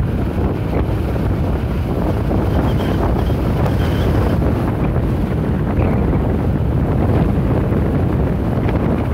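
Wind buffeting the microphone of a hand-held phone during a bike ride: a steady, loud low rumble.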